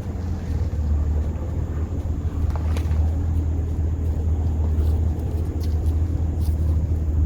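Straight-piped (muffler-deleted) Chevrolet Camaro ZL1's supercharged 6.2-litre V8 running steadily, its exhaust giving a deep, even low note with no revving.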